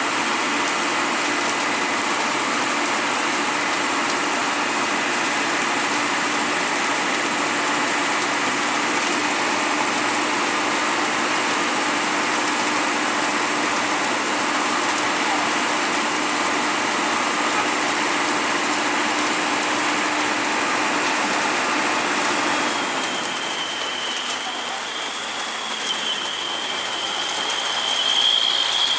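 Steady heavy rain hiss with a vehicle engine's low drone beneath it. The drone stops about three-quarters of the way through, and a thin high whine then rises toward the end.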